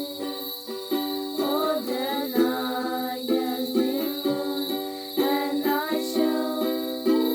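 Music on a plucked string instrument, ukulele-like, with notes struck one after another in a steady pattern and a few sliding pitches.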